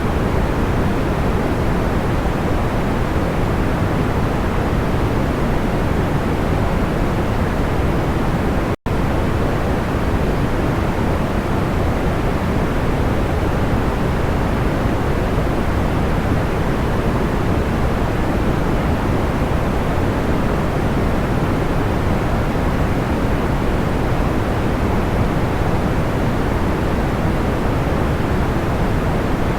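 Steady, even sleep noise of the pink-noise kind, heavy in the lows and soft in the highs, with no audible crackle. It cuts out for an instant about nine seconds in, then carries on unchanged.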